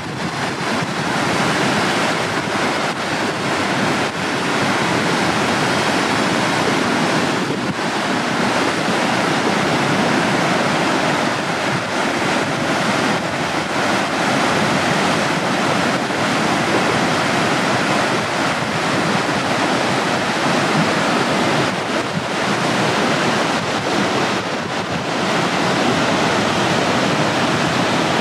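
Swollen river water rushing in a steady, even noise after a typhoon's rain.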